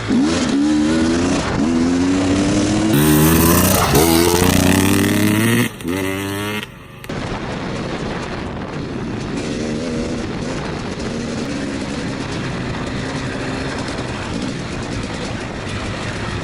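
KTM enduro motorcycle engine revving hard as it pulls away, its pitch climbing and falling back again and again through the gears. After a brief drop-out about seven seconds in, it runs steadier at lower revs.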